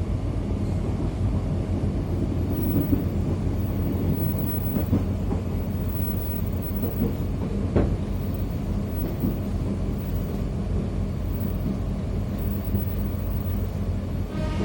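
Steady low hum and rumble of an airport train carriage heard from inside, with one sharp click about eight seconds in.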